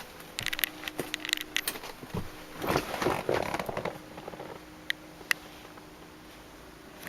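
Handling noises in the limousine's rear compartment: rustling and scraping with scattered sharp clicks, busiest in the first half and with two short clicks about five seconds in, over a faint steady hum.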